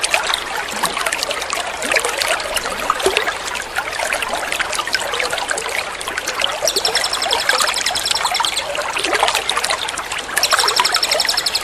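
Water trickling and splashing steadily. Over it, a small songbird's fast, high, rattling trill ('tembak' style) comes in twice for about two seconds each: once about two-thirds through and again near the end.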